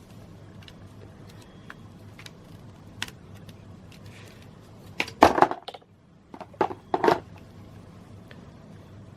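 Hard objects being handled: a single click, then two short clusters of sharp clicks and knocks about five and six and a half seconds in, over a faint steady hum.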